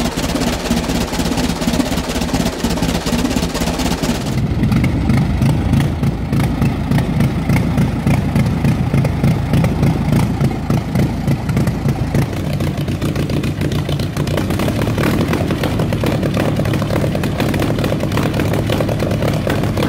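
The Blitzen Benz's 21.5-litre four-cylinder engine running. About four seconds in it changes to harder, rapid firing, and it runs on that way with a shift in tone at about twelve seconds.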